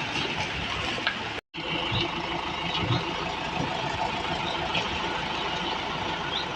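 An engine running steadily, cut by a sudden brief drop to silence about one and a half seconds in.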